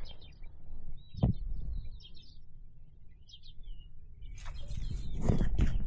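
Faint short bird chirps over a steady low rumble, with a single knock about a second in and rustling and clicking that builds near the end.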